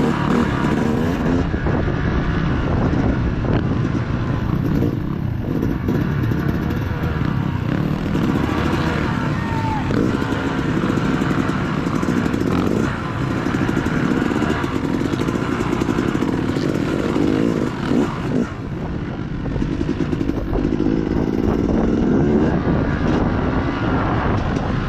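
Dirt bike engine running under load, its pitch rising and falling again and again as the throttle is worked, with a brief dip about eighteen seconds in.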